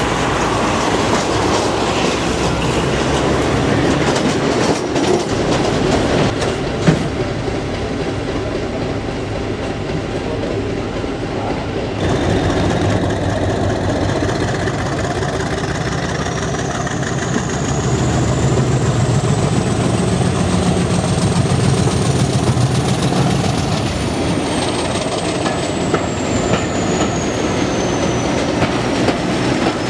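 Passenger train running slowly, heard from a carriage window, wheels clattering over rail joints with scattered clicks. In the second half a diesel engine note grows for a few seconds and a thin high whine rises and then falls away.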